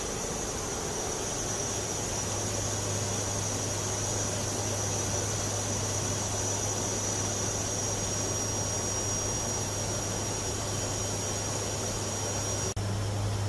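Steady drone of a WC-130J Super Hercules's four Rolls-Royce AE 2100 turboprop engines and propellers in flight: a constant low hum and rushing noise with a thin high whine over it, briefly dropping out near the end.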